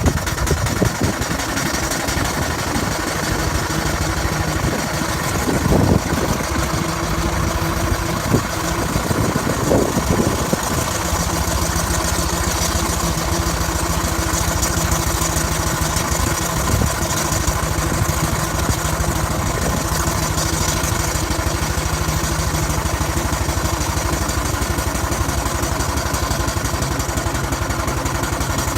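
Six-inch scale Burrell showman's steam traction engine running on the road, a steady mechanical working sound with irregular knocks for the first ten seconds or so, then an even hum.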